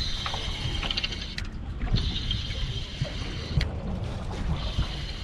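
Constant low rumble of wind and sea at the shore, with a thin high whine that comes and goes three times.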